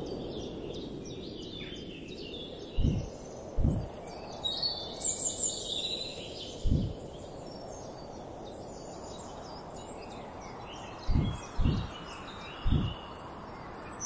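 Several birds chirping and trilling over a steady hiss, with six short low thumps scattered through.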